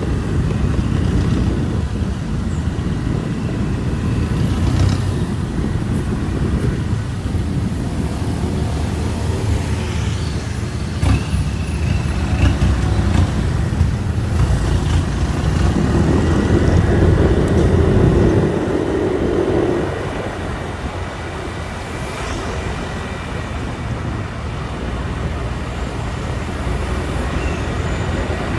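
Motorbike ride through street traffic: a steady low rumble of the bike and the road, which grows louder about two-thirds of the way through and then drops back.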